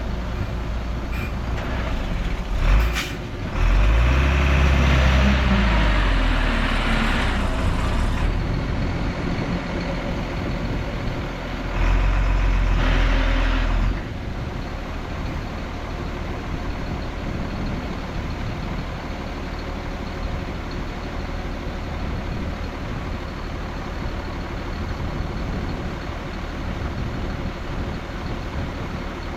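Heavy diesel engine running, with a loud burst of revving whose pitch climbs a few seconds in, a sharp hiss-like hit just before it, and another surge of power around twelve seconds. It then settles to steady running.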